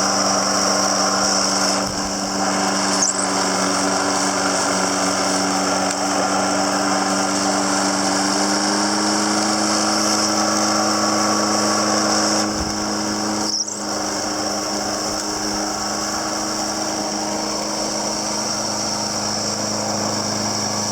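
Snapper Easy Speed walk-behind mower's 7 hp Briggs & Stratton overhead-valve engine running steadily with its blade turning, mulching grass. The engine pitch rises slightly about eight seconds in.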